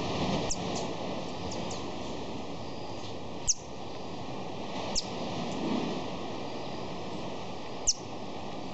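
A bird giving short, high-pitched calls that fall in pitch, four loud ones spaced a few seconds apart with fainter ones between, over a steady wash of background noise.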